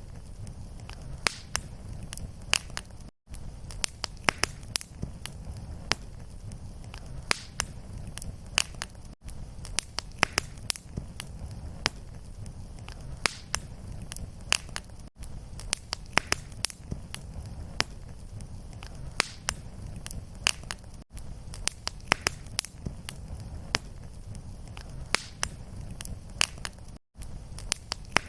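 Fireplace fire crackling: a steady low rumble of flames with frequent sharp pops and snaps. Brief silent gaps recur about every six seconds.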